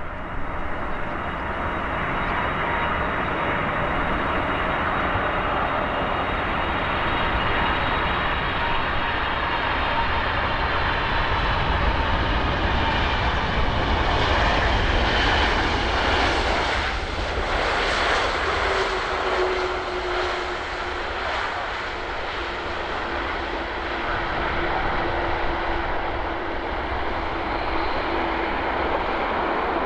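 Boeing 747-400's four jet engines passing on landing approach, a steady heavy jet rumble with a high whine. The sound swells to its loudest about halfway through, and the whining tones sag slowly in pitch as it passes.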